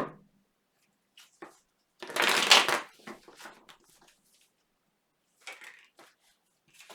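Tarot cards being shuffled and handled: a dense, crackling riffle of about a second starting about two seconds in, with a few light clicks before it and softer card sounds later.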